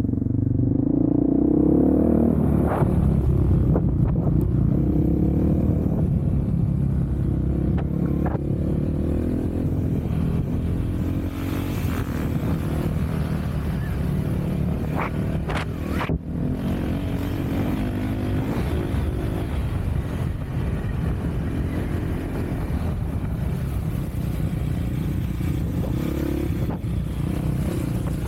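Off-road vehicle engine running continuously while riding, its pitch rising in the first couple of seconds and then holding fairly steady, with a few brief knocks along the way.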